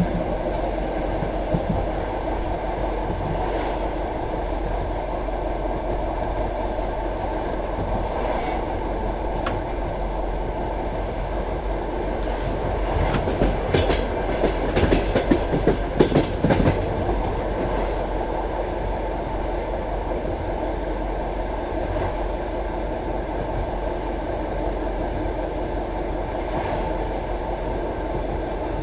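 Passenger railway carriage running at speed: a steady rumble of wheels on rail with the clickety-clack of rail joints, and a louder, busier stretch of clatter about halfway through.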